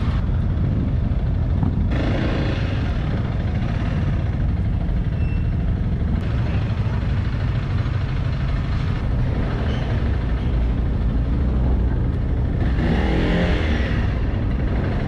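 Motorcycle engines running with a steady low rumble. About 13 seconds in, a brief wavering higher sound rises over it.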